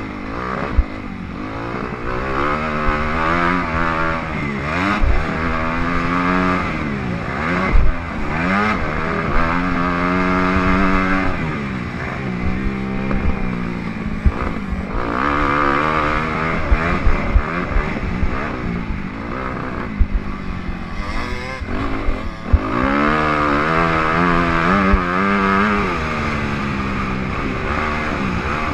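Motocross dirt bike engine riding hard on a track, its revs repeatedly climbing and dropping as the rider twists the throttle and shifts. Brief sharp thumps cut through the engine now and then.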